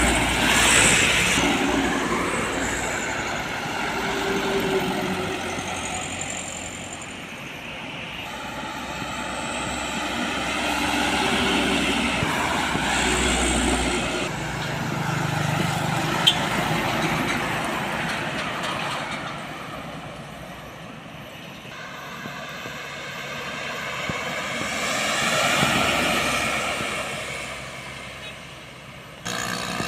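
Road traffic: heavy trucks and other vehicles passing one after another, their engine and tyre noise swelling and fading with each pass.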